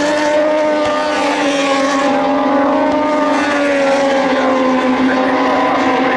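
Moto2 racing motorcycles' Triumph 765 cc three-cylinder engines running at high revs, one steady engine note whose pitch drifts slowly downward.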